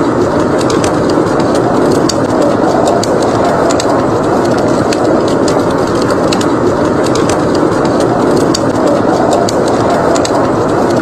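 A wood fire crackling in a fireplace, with frequent small sharp pops, over the steady rushing noise of blizzard wind.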